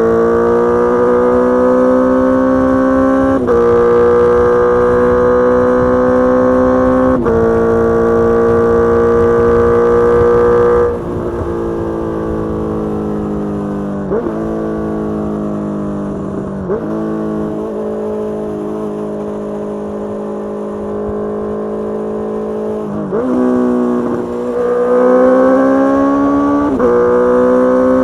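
Honda CBR650R's inline-four engine through a Mivv GP Pro full-system exhaust, under load and shifting up twice, the first time a few seconds in. About eleven seconds in the throttle closes and the note falls away, with quick rev jumps as it is downshifted three times. Near the end it pulls hard again and shifts up once more.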